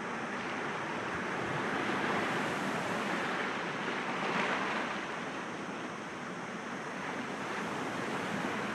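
Sea waves breaking gently against rocks, a continuous wash of surf that swells to a peak a few seconds in and then eases back.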